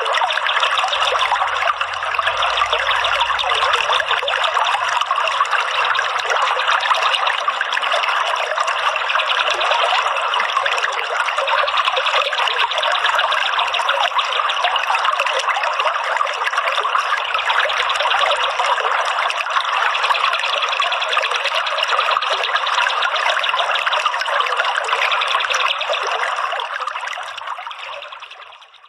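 Steady trickling, running water, fading out over the last couple of seconds.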